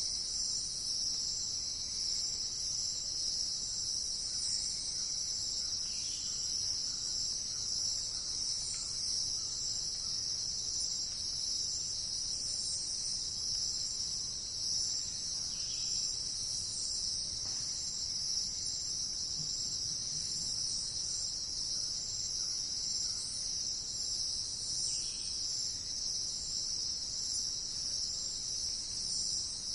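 Steady, high-pitched insect chorus that drones on without a break, with a few faint, brief bird calls now and then.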